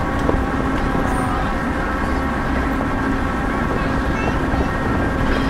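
Steady rumble and drone of a moving train heard from inside a passenger car, with wheels running on the rails and a few faint short squeaks.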